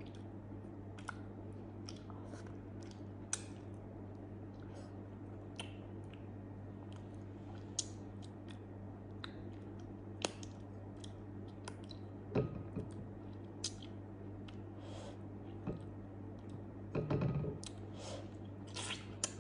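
Close-up mouth sounds of a person chewing soft grilled eggplant: scattered wet smacks and small clicks, with a denser bout of chewing about two-thirds of the way through, over a steady low hum.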